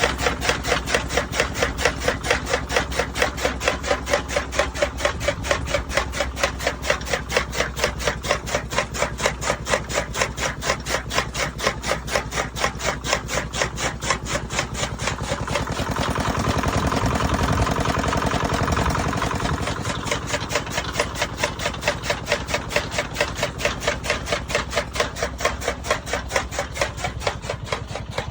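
An engine running steadily with a regular chugging beat, about three pulses a second, growing louder for a few seconds in the middle.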